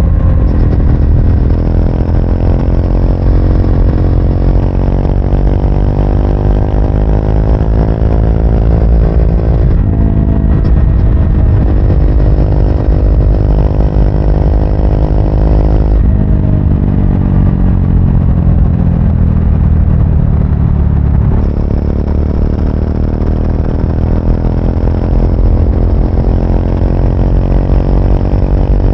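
2024 Triumph Speed 400's single-cylinder engine pulling under way: the revs climb, drop at an upshift about ten seconds in and climb again, then fall away for several seconds as the throttle closes before picking up again.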